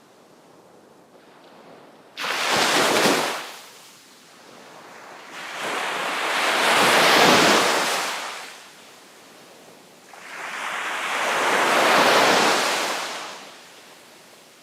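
Sea waves breaking on the shore: three waves in turn, the first crashing in suddenly about two seconds in, then two longer ones that swell, break and wash back, with a quiet hiss between them.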